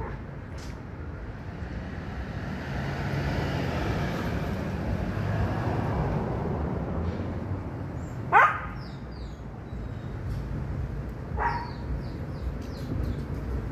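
A dog barks twice, sharp and short, about three seconds apart, the first louder, over a steady low rumble of background noise.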